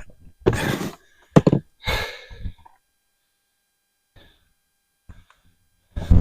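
Hard thunks and knocks of toolboxes being shifted and set down: a short clatter, two sharp knocks about a second and a half in, another clunk, then a lull before more handling near the end.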